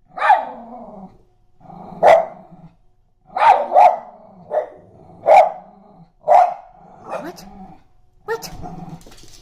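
Small pet dogs, a miniature schnauzer and a Frenchton, barking in uneven bursts of about ten sharp barks at a bird they cannot reach.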